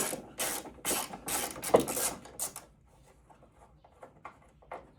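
Hand ratchet wrench backing out a screw: a run of short ratcheting strokes about two a second that stops about two and a half seconds in, followed by a few faint clicks.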